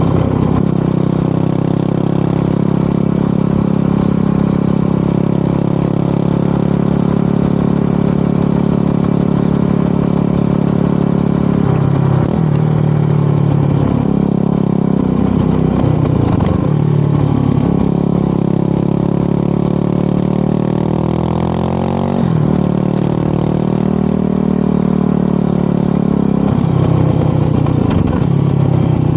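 Yamaha WR250R single-cylinder motorcycle engine with an FMF PowerCore 4 muffler, running under way. It holds a steady speed, then about twelve seconds in the pitch drops and climbs through gear changes as it slows and speeds up, with a long rising pull about twenty seconds in, and further shifts near the end.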